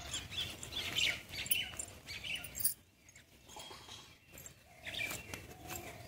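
Small birds chirping in quick, short calls, with a brief lull about three seconds in.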